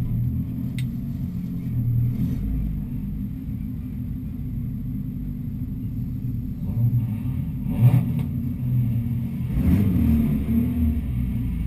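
Ford Escort Mk4's 2-litre Zetec four-cylinder engine idling, heard from inside the stripped cabin, with a couple of short throttle blips, one about two-thirds of the way in and one near the end.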